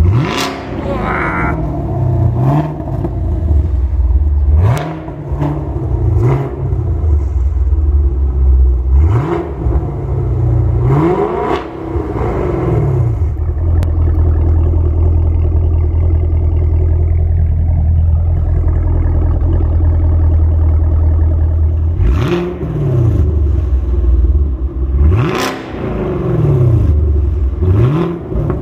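Chevrolet Camaro SS 6.2-litre V8 through an Akrapovic valved exhaust, revved in a run of quick throttle blips that rise and fall back to idle. Through the middle it settles to a steady idle, then is blipped again a few times near the end.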